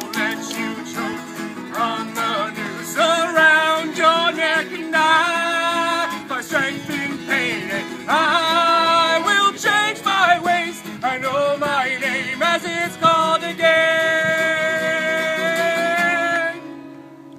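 Voices singing along with a strummed guitar. The music stops about sixteen and a half seconds in.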